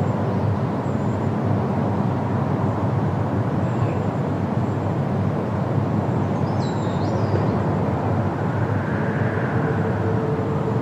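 Steady wind through trees, with a brief faint bird call about two-thirds of the way in.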